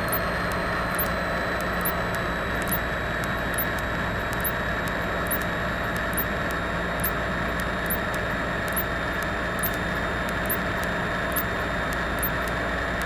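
Cessna 172 Skyhawk's engine and propeller droning steadily in flight, heard from inside the cabin, with a faint high ticking a little more than once a second.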